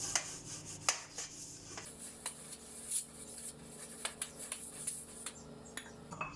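Butter being rubbed over a kunafa pan to grease it: light scattered rubbing with a few small clicks and taps against the pan.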